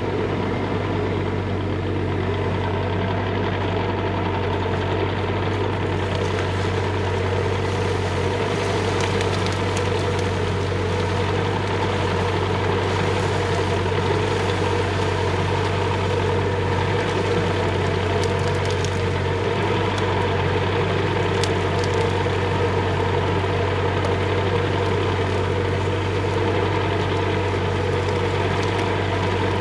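Bobcat E35 mini excavator's diesel engine running steadily, with a few faint clicks and rattles from the machine at work.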